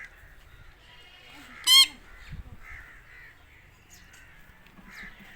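A parrot gives one short, loud, harsh screech a little under two seconds in. Fainter soft bird chirps sound around it.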